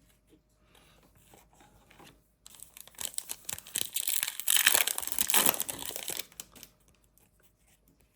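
A trading-card pack's plastic foil wrapper being torn open and crinkled by hand. Light handling sounds lead into about four seconds of crackling tearing and crumpling, loudest in the middle, which then dies away.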